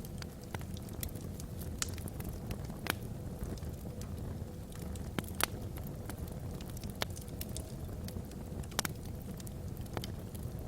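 Burning logs in a fireplace crackling, with irregular sharp pops and snaps a few times a second over a steady low rumble.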